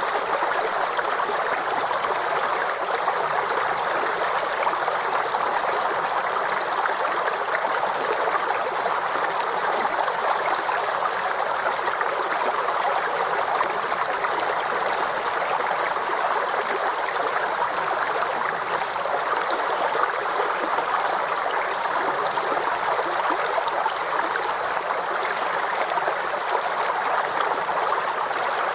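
Small forest stream flowing over rocks: steady running and gurgling water.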